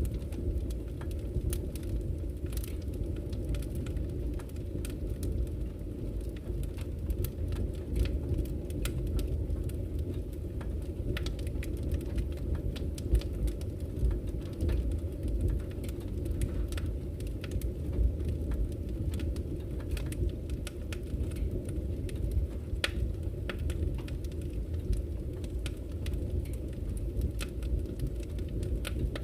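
Wood campfire crackling, with frequent irregular sharp pops and snaps, over the steady low rushing of a flowing river.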